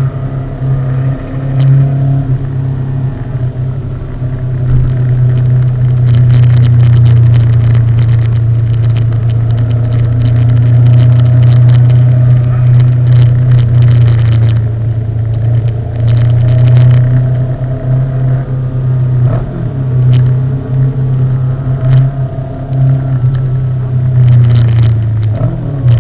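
Steady low drone of a vehicle on the move, with intermittent crackling noise over it through much of the middle stretch.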